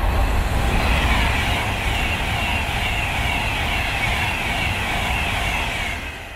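Avanti West Coast Class 390 Pendolino electric express passing through at speed: a loud rush of steel wheels on rail and air, with a high note sliding downward over and over. It dies away near the end as the last coach goes by.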